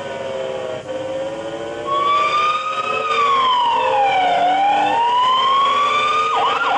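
Fire-engine siren, electronic, wailing: about two seconds in it starts a slow fall and rise in pitch, then it switches to a fast yelp near the end.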